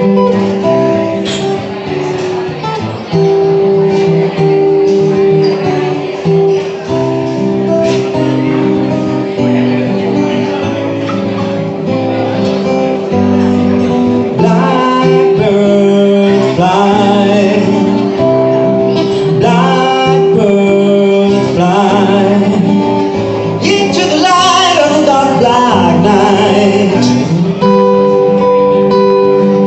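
Acoustic guitar music in an instrumental passage of a song, with held, ringing notes. A gliding melody line rises and falls over the guitar from about halfway through until near the end.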